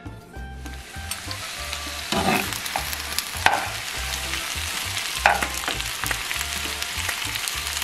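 Tomatoes, onion and halved habanero chiles sizzling as they fry in oil in a pan, the sizzle coming up about half a second in and then holding steady. A metal spoon scrapes and stirs them against the pan a few times.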